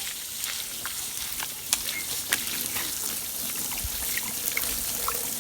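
Water running steadily, with a few light ticks and knocks near the middle.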